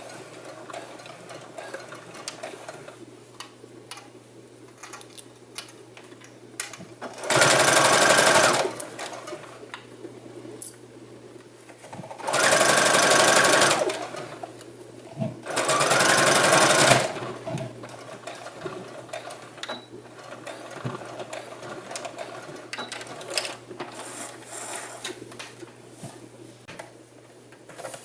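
Electric sewing machine stitching in three short runs of about a second and a half each, with quiet clicks of fabric and machine handling in between.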